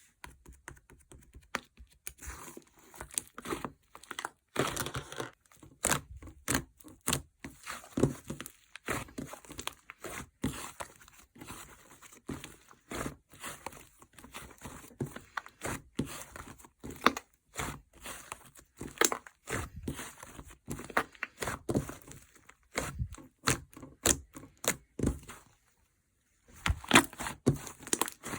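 White slime being squished and stretched by hand, giving a dense, irregular run of crackles and pops. The sound stops for about a second near the end, then starts again.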